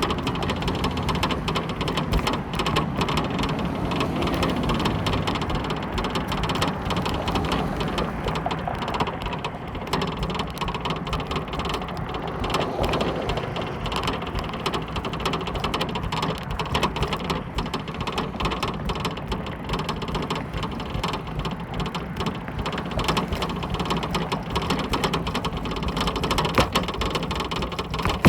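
Continuous rumbling, rattling noise, busy with small clicks, with a pitched tone falling in pitch over the first five seconds or so.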